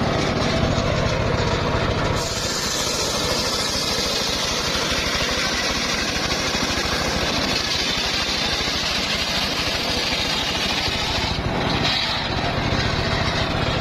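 Log-milling circular saw cutting through a log: a steady engine drone, joined about two seconds in by a loud, high hissing whine as the blade bites into the wood, which holds to the end with a brief dip near the end.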